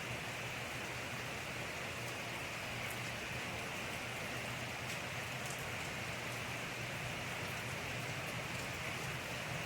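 Steady rain falling, an even hiss with scattered drop ticks and a faint low hum beneath.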